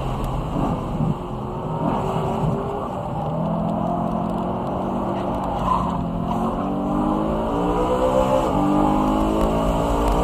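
BMW E92 M3's 4.0-litre V8 engine on track: its pitch falls as the car slows at first, then rises steadily under acceleration, drops sharply at an upshift about eight and a half seconds in, and climbs again.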